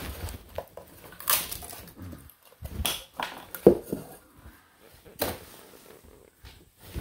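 Scattered knocks, clatters and scrapes of hand tools and building materials being handled, about half a dozen separate sounds spread through the stretch.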